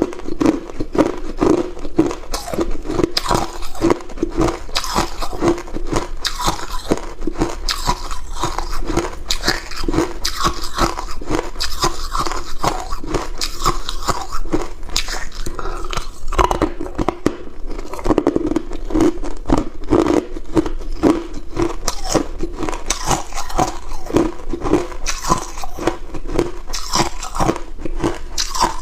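Hard cube ice being bitten and chewed close to the microphone: dense, continuous crunching and cracking.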